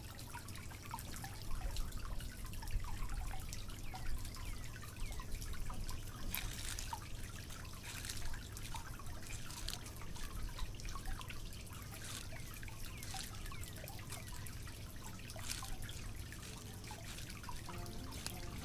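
A small river or stream flowing, trickling and dripping steadily, with frequent little gurgles and a few brighter splashes.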